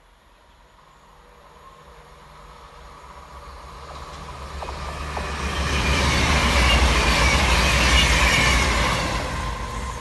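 CrossCountry Voyager diesel-electric multiple unit approaching and passing: engine and wheel-on-rail noise building over several seconds, loudest as the carriages go by, then beginning to fade as it moves away.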